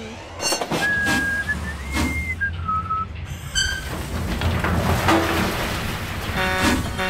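A high, pure whistle holding three notes in turn, the middle one highest, over a low rumble. Short horn toots follow near the middle and at the end.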